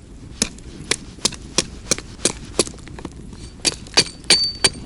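Repeated sharp strikes of metal on metal, like a hammer tapping, about three a second with a short pause about three seconds in; the later blows leave a faint ring.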